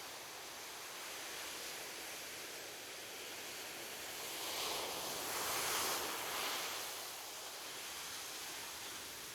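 Ocean surf washing on a beach: a steady hiss of water, with one wave swelling louder about halfway through and then falling back.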